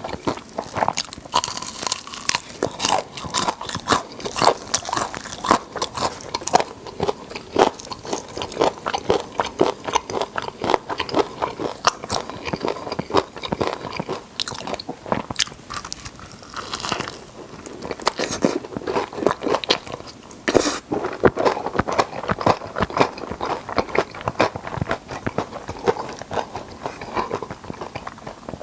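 A person eating chicken close to the microphone: bites and chewing with a dense, irregular stream of sharp crackly clicks.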